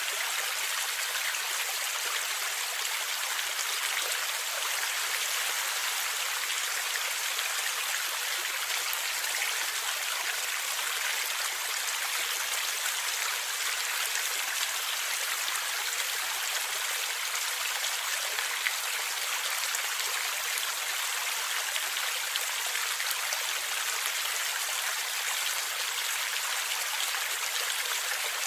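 Steady flowing stream water, a continuous rushing and gurgling with no change over the whole stretch.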